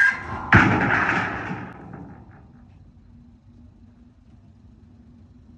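Heavy steel sheet crashing down about half a second in, its metallic clatter dying away over about a second and a half. A low steady hum runs underneath.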